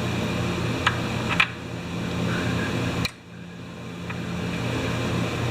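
Steady fan-like shop hum, with a few light clicks of small tools on a carburetor about a second in and just after three seconds, as the jets are being worked out.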